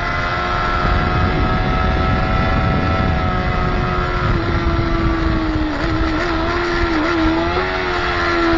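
Motorcycle engine running hard at a high, nearly steady pitch on the track, with a steady rushing noise underneath. The pitch wavers and dips briefly about two-thirds of the way through, then settles again.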